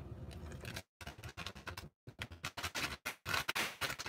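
Close-up chewing of a McDonald's hamburger near the phone microphone: a run of short, crackly mouth sounds broken by brief silences.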